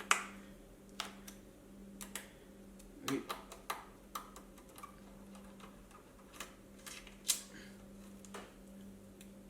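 Scattered small clicks and light knocks of tools and parts being handled during wheel work, over a steady low hum.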